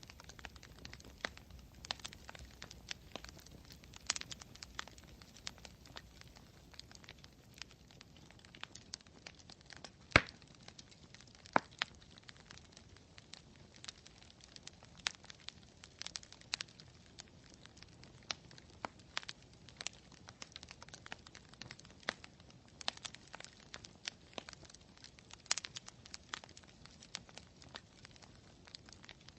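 Campfire burning, its wood crackling and popping at irregular intervals over a faint low hiss, with one sharp, much louder pop about ten seconds in.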